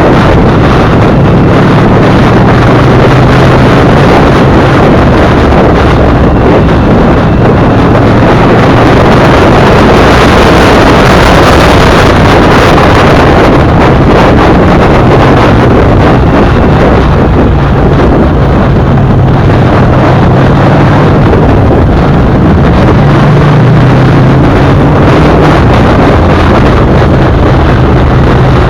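Sport motorcycle's V-twin engine running at steady cruising speed, its pitch shifting slightly now and then, under loud wind noise buffeting the microphone.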